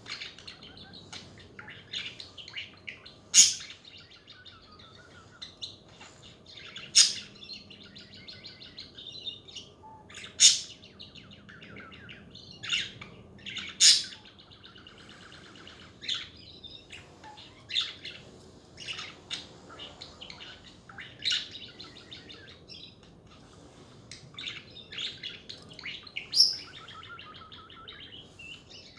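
Budgerigars chattering: a steady warbling with quick chirps and trills, broken by sharp, loud single calls every few seconds.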